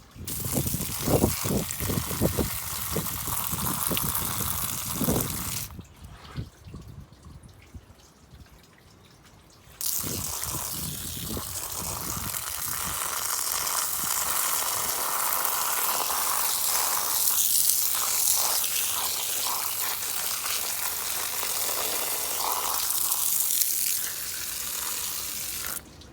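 Water rushing or spraying hard in a steady hiss, with some knocks at first. It cuts off abruptly for about four seconds, then starts again just as suddenly.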